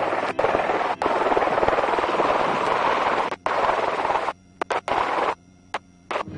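Helicopter-mounted machine gun firing in long bursts of rapid automatic fire over helicopter noise. The bursts stop abruptly several times, and a few single sharp cracks follow in the second half.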